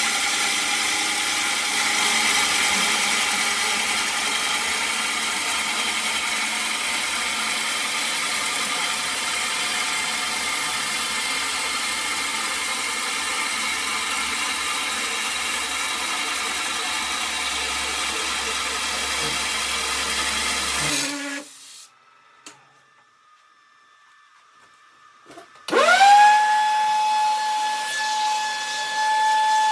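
Lathe running as it turns a snare drum shell, a steady machine whine with cutting noise. It cuts off about 21 seconds in. About four seconds later the lathe starts again, its whine rising in pitch and settling into a steady tone.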